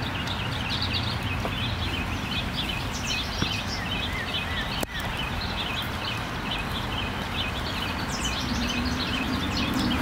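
Wild songbirds chirping and twittering in many quick, short notes, over a steady low rumble of outdoor background noise.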